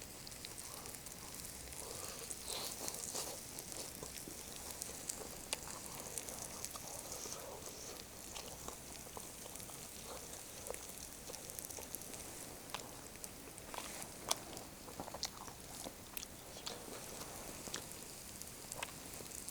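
A person chewing grilled chicken close to the microphone, over the faint, steady sizzle of the iron griddle and scattered crackles from the burning Swedish torch log.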